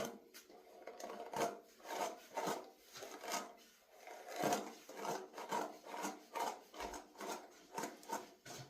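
Rasping rubs of natural 4C hair being handled, a run of irregular strokes about two a second.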